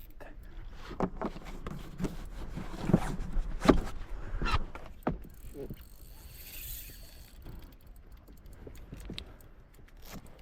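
Irregular knocks, clicks and rattles from fishing gear and a small boat's hull while a big fish is being fought, the loudest a few sharp knocks about three seconds in, with a short hiss a little past the middle.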